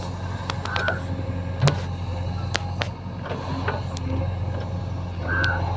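Heavy diesel engine running steadily under a JCB-and-tractor soil-loading job, with scattered sharp clicks and knocks over the drone.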